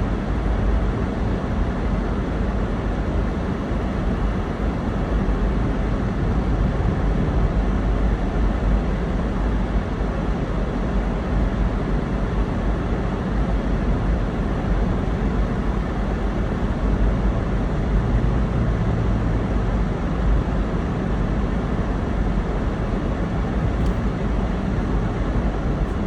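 Steady road and engine noise of a car being driven, a low rumble with an even hiss over it and no changes.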